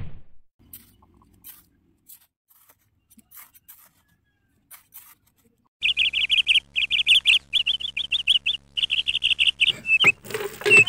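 Faint scattered scrapes at first. About six seconds in, small birds start chirping in quick repeated trills over a steady low hum, and the chirping runs on to the end.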